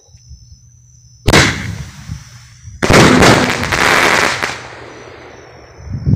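Consumer fireworks going off: one sharp bang about a second in, then a dense crackling spell of many rapid small reports lasting about two seconds, which fades out.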